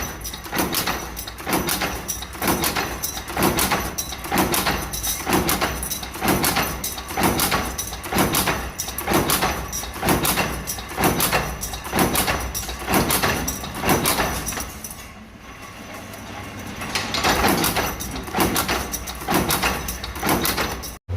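Power press stamping with a compound die for exhaust-fan legs: regular sharp clanking strokes, a little over one a second. The strokes die away about fifteen seconds in and start up again a couple of seconds later.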